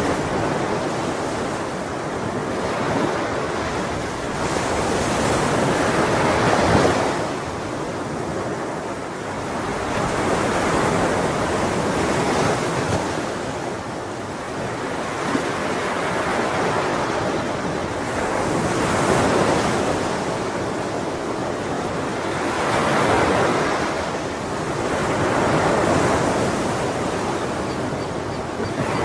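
Ocean surf: waves washing in continuously, the sound swelling and falling back every few seconds as each wave breaks and recedes.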